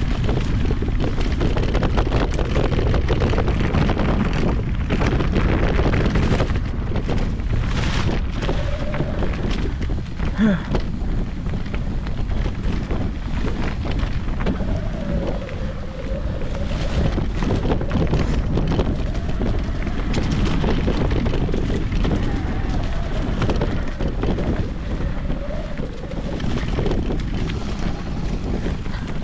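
Wind buffeting the microphone of a head- or bike-mounted action camera on an electric mountain bike riding a dirt trail. Tyre noise and rapid rattles and knocks from the bike run under it.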